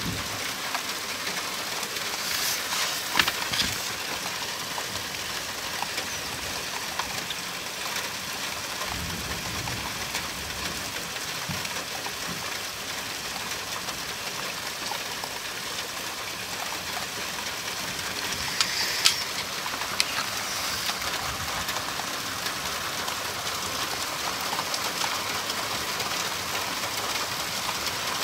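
Steady rain falling during a thunderstorm, with a few sharp taps of drops about three seconds in and again about two-thirds of the way through.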